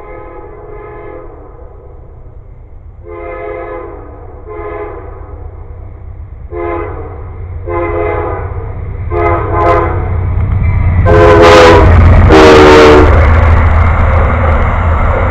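A locomotive horn sounds a series of short blasts that grow louder as the train approaches, the last two the loudest. A low rumble from the passing train's engine and wheels rises under them and carries on after the horn stops.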